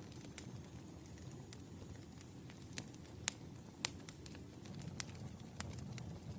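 Wood fire burning, with scattered sharp crackles and pops over a low steady rumble; the loudest pop comes about three seconds in.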